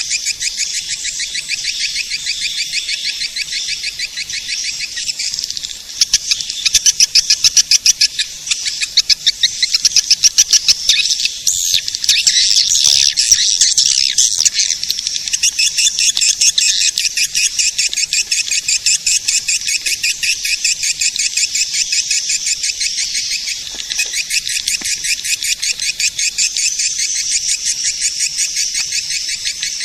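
Swiftlet calls played as a lure: dense, very rapid chattering chirps from many birds at once, high and thin, louder for several seconds from about a fifth of the way in. This is the kind of swiftlet-caller recording played to draw swiftlets into nesting houses.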